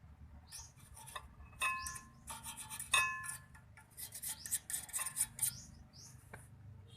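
Metal tools and parts clinking and rattling during brake work, with two sharper metallic clanks that ring on briefly, about a second and a half and three seconds in. Short high bird chirps sound now and then in the background.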